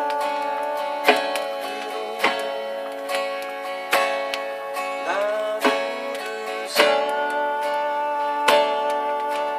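Acoustic guitar playing strummed chords, each stroke ringing on until the next.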